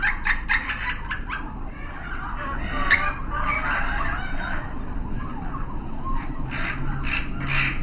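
Many caged birds chirping and calling at once in a dense, overlapping chatter, thickest at the start and again near the end.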